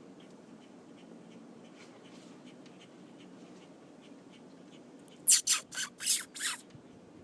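Five loud, harsh alarm calls in quick succession from a parent grackle about five seconds in, scolding a cat near its young.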